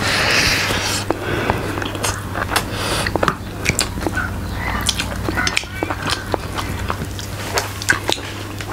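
Close-miked mukbang eating sounds: chewing pork rib with wet mouth clicks and lip smacks scattered throughout, over a steady low hum.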